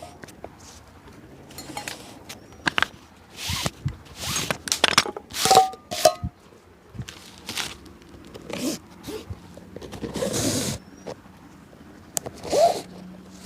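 Irregular scrapes, rustles and taps from hands-on shoe restoration work, with a few longer brushing or rubbing strokes among sharp small clicks.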